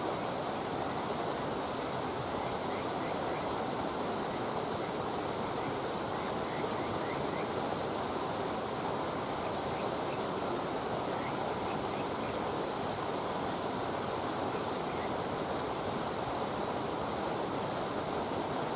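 Steady rushing of flowing water, with faint short chirps now and then and one tiny tick near the end.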